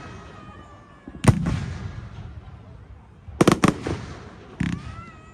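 Fireworks display: sharp shell-burst bangs, one about a second in, a quick cluster of three or four past the middle and another near the end. Long whistling tones slowly fall in pitch at the start and again near the end.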